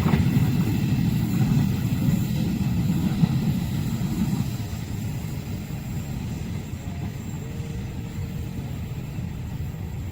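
A train passing and moving away: a loud, low noise of its cars on the rails that dies away steadily from about four seconds in.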